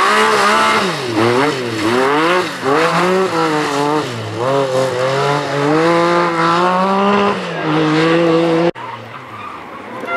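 Group B rally car engine run hard on a stage, its pitch repeatedly climbing and dropping as it revs, shifts and lifts off, with tyre noise. Near the end the sound cuts off suddenly to something much quieter.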